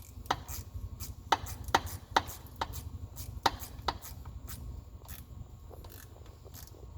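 A run of sharp clicks and knocks from hand tools and parts being handled during engine-bay work, about seven in the first four seconds and then fewer, over a steady low hum.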